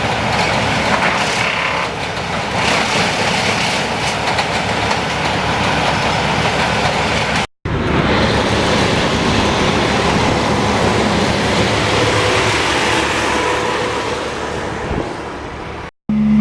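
Heavy tree-removal machinery running loudly with a dense, clattering rumble. It comes in three stretches, broken twice by a sudden cut to silence.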